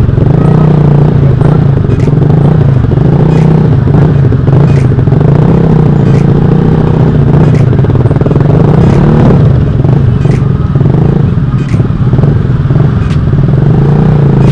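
Motorcycle engine running through a loud aftermarket exhaust (knalpot) at a fairly steady speed, its low note wavering slightly, without hard revving.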